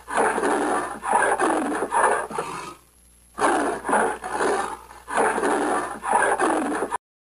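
An animal's rough, roaring calls, repeated about twice a second, with a short break about three seconds in. The sound cuts off suddenly near the end.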